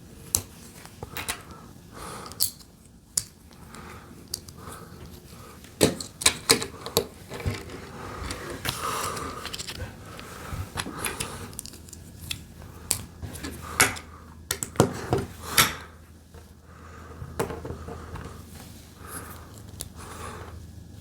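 Plastic LEGO pieces clicking and clattering as they are handled and pressed together: a string of irregular sharp clicks, with a few louder snaps.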